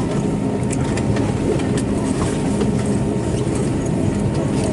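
Cabin noise inside an Airbus A320neo on the ground: a steady low hum from its CFM LEAP-1A engines at idle, with scattered small clicks and rattles in the cabin.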